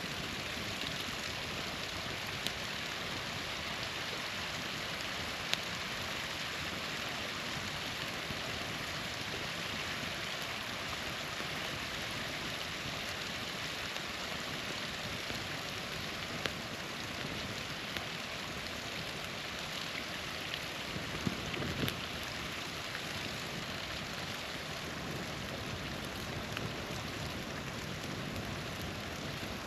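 Small waterfall splashing steadily, a constant watery hiss, with a few sharp pops from a campfire scattered through it.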